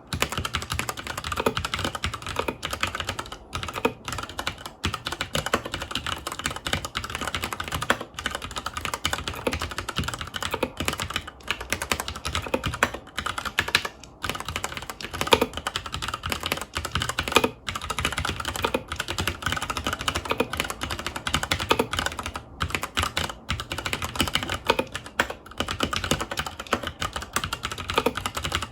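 Fast, continuous typing on a FILCO Majestouch 2 Hakua tenkeyless mechanical keyboard with Cherry MX Brown switches: rapid key clicks and clacks of keys bottoming out, with a few brief pauses.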